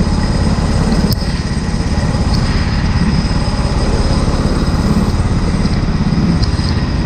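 Go-kart engine running steadily, with a dense low rumble, a thin high whine over it and a brief click about a second in.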